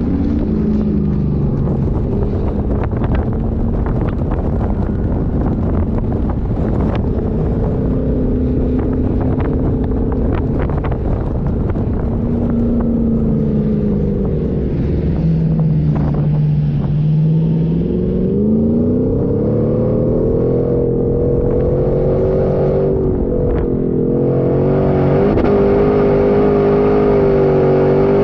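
4x4 engine driving off-road on sand, its pitch dipping and rising with the throttle, then climbing to a higher, steady, louder pitch in the last third, with scattered knocks and rattles in the first half.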